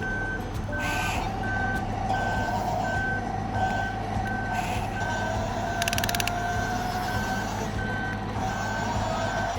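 Vehicle reversing alarm beeping at an even pace, about two beeps a second, over a steady, slightly wavering motor whine.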